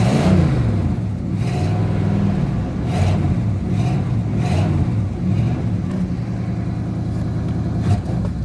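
1983 Pontiac Firebird engine running on a cold start, its revs rising and falling about once a second as it is kept from stalling: the engine is cold-blooded and stalls in the cold weather.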